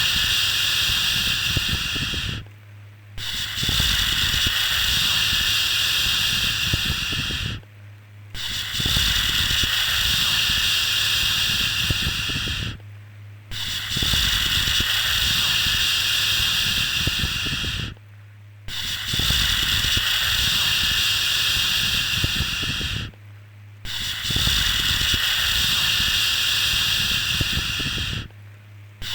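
A drawn-out 'shhh' shushing sound for soothing a baby, repeated in long strokes of about four to five seconds, each followed by a brief pause, with a faint low hum underneath.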